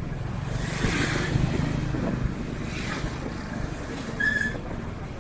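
Vehicle engine running while riding, a steady low rumble with wind noise swelling on the microphone, and a short high chirp about four seconds in.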